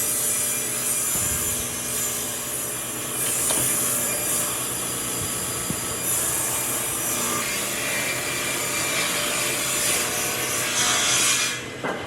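A power tool working wood, a steady rasping noise that swells and eases several times and cuts off near the end.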